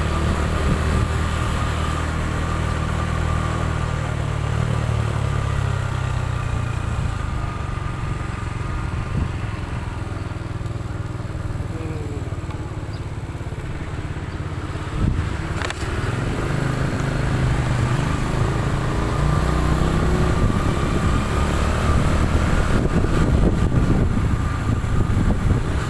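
Motorcycle engine running steadily while riding along a road, a continuous low rumble that shifts slightly in pitch with speed.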